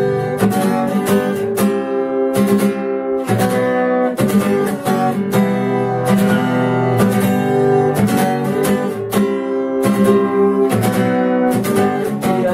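Acoustic guitar strumming chords, an instrumental passage between sung verses of a rock song.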